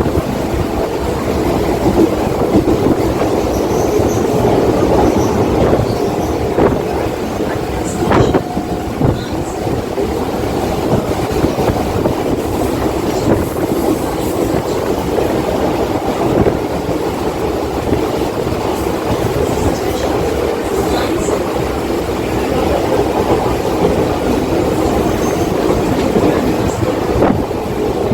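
Mumbai local electric suburban train running along the track: a steady rumble with scattered clacks of the wheels over the rails.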